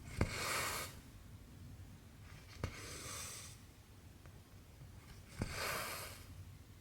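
Cross-stitch needle clicking through stretched fabric, then cotton thread drawn through with a swish, three times about two and a half seconds apart.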